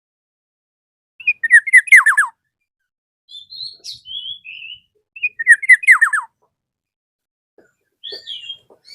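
Black-naped oriole (kepodang) singing: two loud bursts of quick down-slurred whistled notes about four seconds apart, with softer, higher notes in between and again near the end.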